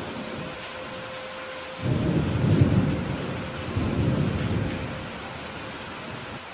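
Steady rain falling, with a roll of thunder that breaks in about two seconds in, swells twice and fades away.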